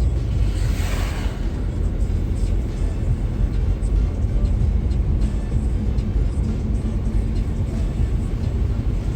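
Steady low rumble of road traffic, with a vehicle's tyres hissing past about a second in.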